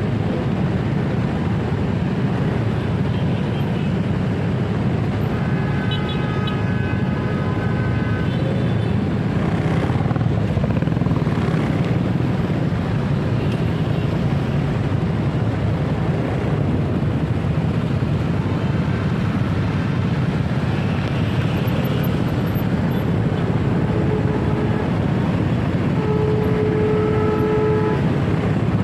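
Steady motorcycle riding noise in city traffic: engine, tyre and wind rumble on the rider's microphone. Short pitched beeping tones come twice, about six seconds in and again near the end.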